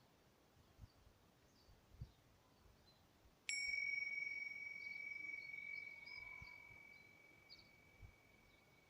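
A small meditation bell struck once, about three and a half seconds in, ringing on one high clear tone that fades slowly over some five seconds. Faint bird chirps sound in the background.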